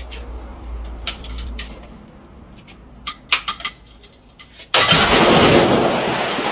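Scattered light clicks over a low rumble, then a sudden loud smash about three-quarters of the way in that carries on as a dense, noisy rush for nearly two seconds: a heavy iron ball breaking a water-filled glass bottle.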